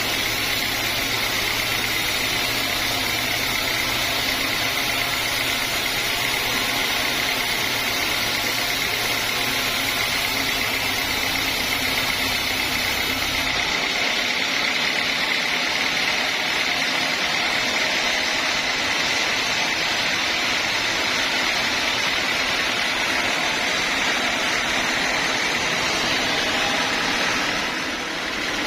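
Homemade band sawmill running steadily, a machine drone with a steady high-pitched tone over it. The low rumble drops away about halfway through.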